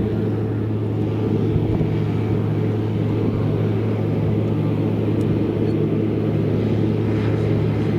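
Cessna 182RG's six-cylinder Lycoming engine and propeller droning steadily in flight, a constant low hum that holds the same pitch throughout.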